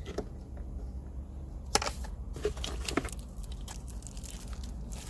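Packaging being handled during an unboxing: crinkling plastic and a few sharp clicks and knocks as parts are taken out, over a low steady hum.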